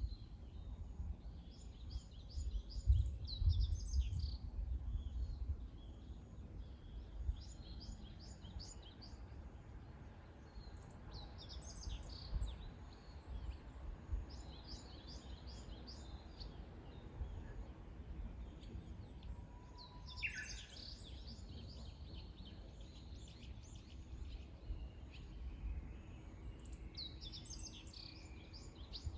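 Wild songbirds singing in short, high, chirping phrases that come back every few seconds, over a steady low outdoor rumble that swells briefly a few seconds in.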